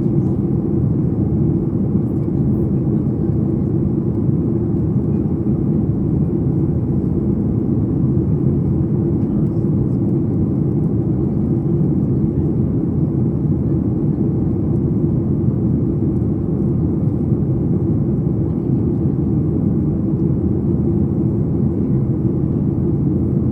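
Steady cabin noise inside a Boeing 737 MAX 8 in descent: an even, low rumble of airflow and its CFM LEAP-1B turbofan engines.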